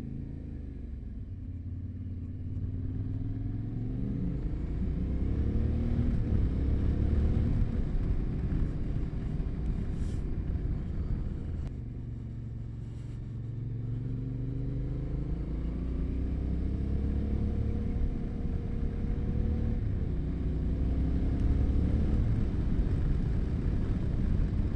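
Yamaha Ténéré 700's parallel-twin engine under way, its revs climbing for a few seconds, easing off about halfway, then climbing again.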